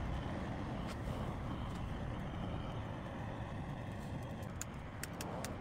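Steady wind noise on the microphone, then a few sharp clicks near the end: a lighter being struck repeatedly without catching.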